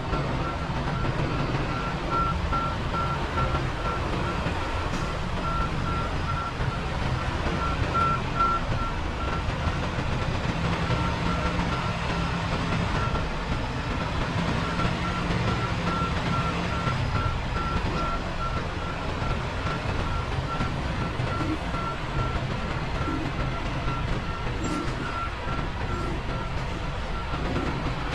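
Semi-truck diesel engine running with a steady low rumble while a reversing alarm beeps evenly, about two beeps a second.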